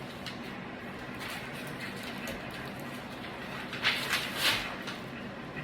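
Three short scratchy scraping sounds close together about four seconds in, from hands working on an old window screen, over a steady low hum.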